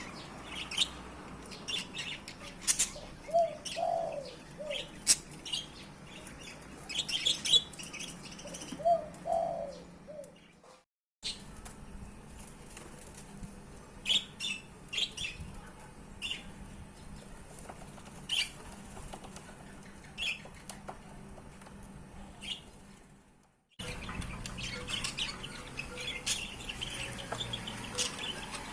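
Newly hatched chicks chirping in many short, high peeps, with a few lower calls among them. The sound breaks off into silence twice.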